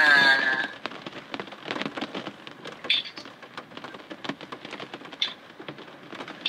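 Steady rain pattering, a dense run of fine drops, with a short high-pitched vocal cry right at the start.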